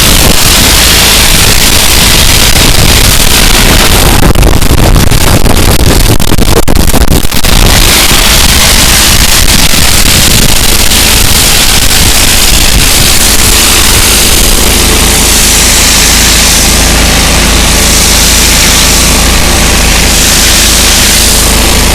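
Pressure washer running very loud, its engine holding a steady low drone under the hiss of the high-pressure water jet; the hiss drops away for a few seconds about four seconds in, then returns.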